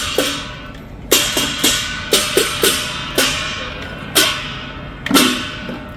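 Lion dance percussion: a drum and clashing cymbals struck in uneven accents, each cymbal crash ringing on briefly.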